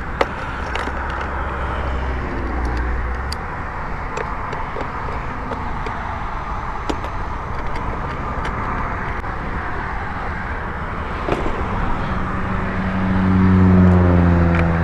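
Road traffic going past, with a few small clicks; over the last few seconds one vehicle's engine grows louder as it approaches.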